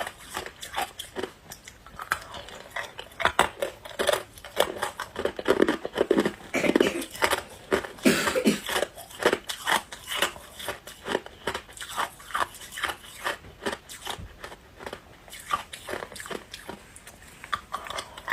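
A person biting and chewing ice, with many sharp, irregular crunches.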